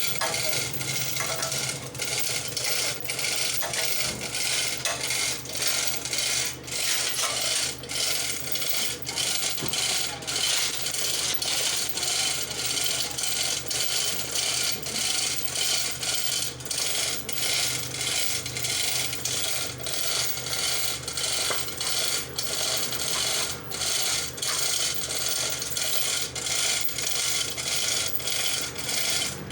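Metal ratchet mechanism clicking and rattling continuously, with many sharp clicks throughout.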